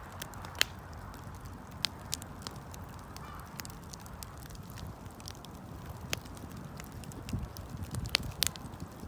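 Wood campfire burning: a steady low rush of the flames with scattered sharp crackles and pops from the burning wood, several in quick succession near the end.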